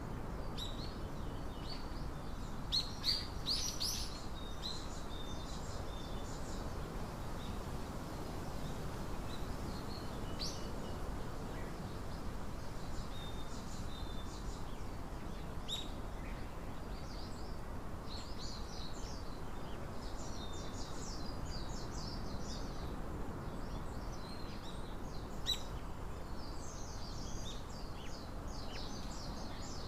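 Small songbirds chirping and calling in short, scattered notes, with a louder flurry of calls about three seconds in, over a steady low outdoor background rumble.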